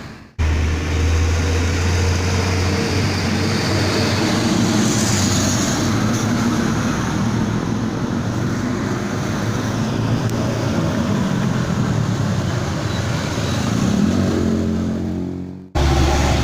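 Diesel dump truck engine running loudly through a modified open exhaust: a deep steady drone with traffic noise over it. Near the end its pitch rises as the engine revs up, then the sound fades out quickly.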